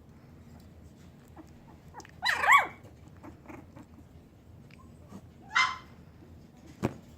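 Young puppies yelping: a loud high yelp with a wavering pitch about two seconds in, then a short yip about halfway through. A single sharp knock comes near the end.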